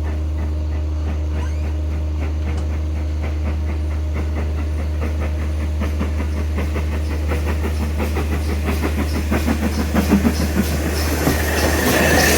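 Train moving along the track toward the listener: a steady low drone with wheels clicking over rail joints, growing louder and quicker after about eight seconds. A high wheel squeal joins near the end.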